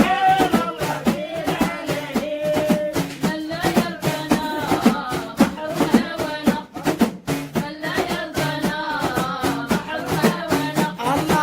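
Devotional dhikr chanting: a sung melody over a steady beat of drum strokes.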